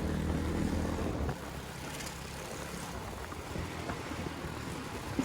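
Motorcycle engine running with a steady low hum that drops away about a second in, leaving a quieter low rumble.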